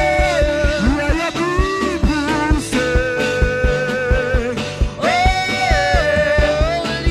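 Worship band music with a steady beat and bass, and a melody line that slides and bends between notes over it.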